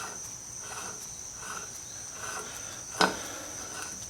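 A steady high insect trill with faint chirps repeating a little more than once a second. A single sharp click sounds about three seconds in as a part of the Phantom III's front hub assembly is handled.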